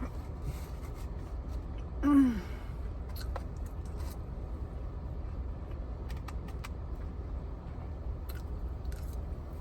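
A short, falling "mm" from a woman's voice about two seconds in, over a steady low hum with scattered faint clicks.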